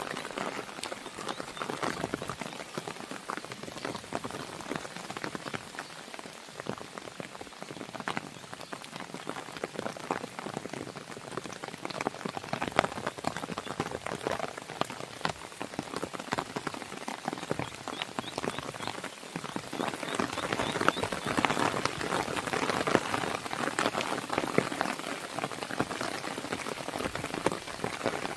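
Steady rain pattering against a window, mixed with the snapping crackle of a wood fire: a dense hiss full of small sharp ticks, growing a little louder about two-thirds of the way through.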